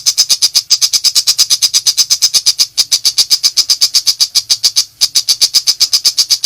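Long-tailed shrike (pentet) giving its rapid-fire 'nembak' chatter: a fast run of sharp, high notes, about ten a second, in long bursts with short breaks between them.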